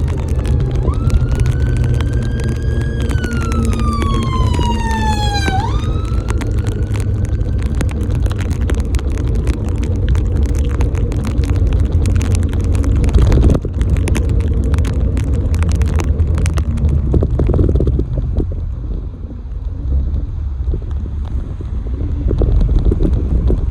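A vehicle siren wails, rising and falling in pitch and fading out after several seconds, over a loud, steady low rumble of road traffic and wind on the microphone.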